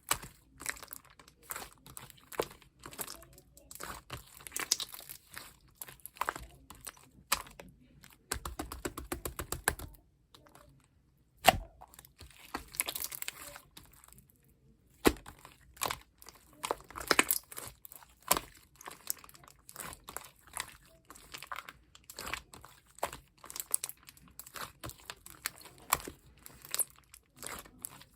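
Slime being squished, poked and stretched by hand, giving irregular sticky clicks, crackles and pops. About a third of the way in comes a fast, rattling run of tiny pops lasting a couple of seconds.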